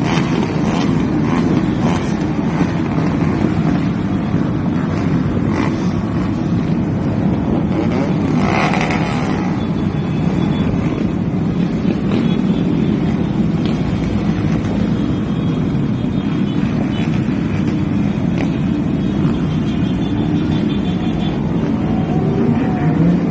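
Steady rumble of vehicle engine and road noise on a motorway.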